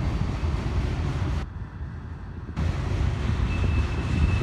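Freight train cars (tank cars and covered hoppers) rolling past on the rails, a steady low rumble that dips briefly in the middle, with wind noise on the microphone. A thin, steady high tone comes in about three and a half seconds in.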